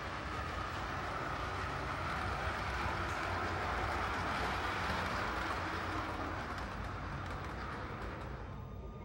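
A train passing: rumbling rail noise that builds to a peak midway and fades away near the end.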